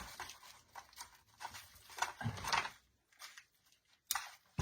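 Light rustling and small clicks of an artificial pine swag and its decorations being handled, with a louder burst of rustling about two seconds in.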